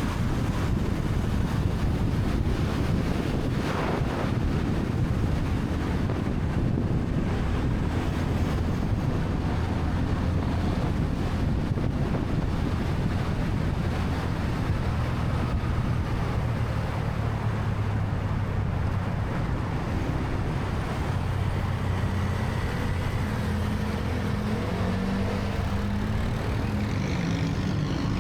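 Wind buffeting the microphone on a moving motorcycle, with the motorcycle's engine running underneath; near the end the engine pitch rises and falls as it changes speed.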